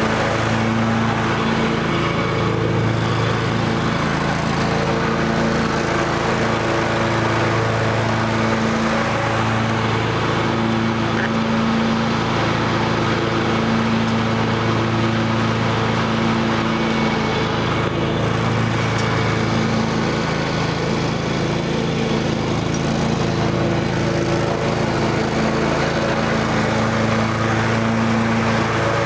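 Kawasaki FH500V 17 hp V-twin engine on a Scag 52 Advantage commercial walk-behind mower running steadily, its hum swelling and easing slightly.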